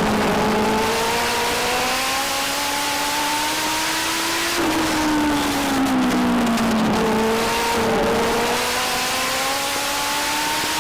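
Legend race car's Yamaha four-cylinder motorcycle engine at racing speed on a short oval. The revs climb along a straight, drop sharply about four and a half seconds in as the throttle is lifted for a turn and keep falling through it, then climb steadily again on the next straight.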